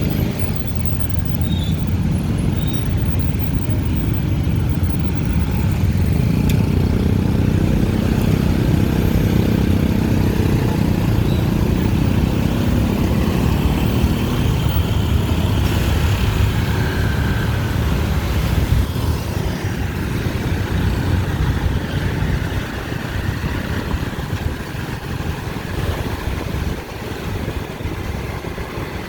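Dense city traffic: many motorbike and car engines running together with tyre noise, a continuous low rumble that swells in the middle and eases off near the end.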